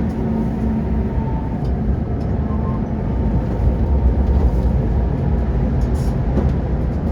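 Tram running on its rails, heard from inside the car: a steady low rumble, with a faint motor whine that fades away in the first second or two.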